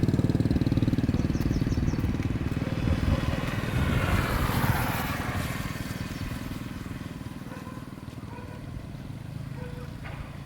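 Motorcycle engine running with a rapid, even beat, its sound fading steadily as it moves away.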